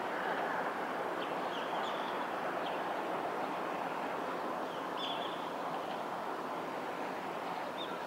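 A few short, high bird chirps, about five scattered through, over a steady rushing background noise.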